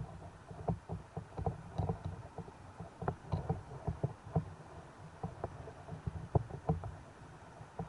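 Sea water sloshing and knocking, heard as irregular soft clicks and low thumps, several a second, over a low rumble.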